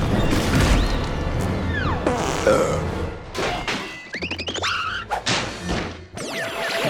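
Cartoon score with a rapid run of comic sound effects: crashes and thuds mixed with sliding tones that swoop down and up in pitch.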